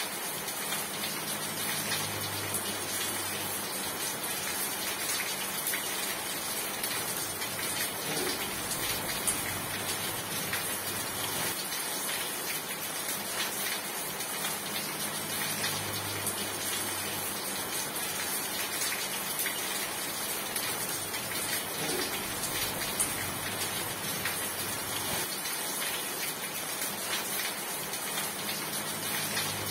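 Steady rain falling, an even, dense patter of drops with no let-up.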